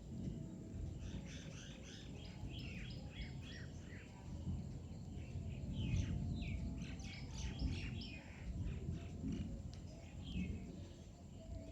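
Small birds chirping in quick runs of short, high calls that come in clusters, over a steady low rumble.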